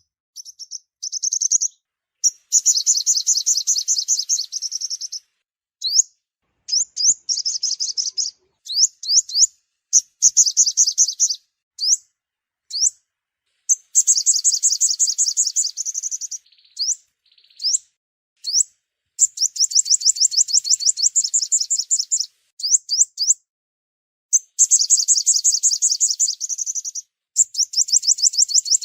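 Sunbird song: fast, high trills of quick upward-sweeping notes in bursts of two to three seconds, separated by short gaps and single scattered notes.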